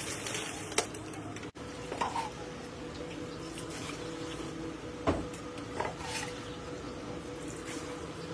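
Scattered clinks and knocks of hard objects, like metal utensils or pots being handled, over a steady hum. The loudest knock comes about five seconds in.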